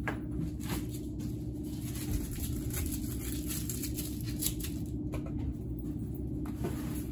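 Cardboard being handled and folded around a mirror: scattered light scratches, rustles and taps, over a steady low hum.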